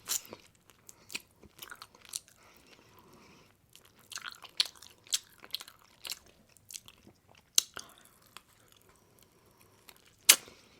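Close-miked eating sounds: a person biting and chewing, with sharp mouth clicks and short crunches at irregular intervals, the loudest near the end.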